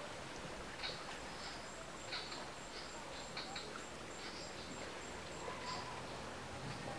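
Outdoor ambience of scattered short bird chirps over a steady low hiss, with a faint, high, evenly pulsing tone, about three or four pulses a second, through the middle.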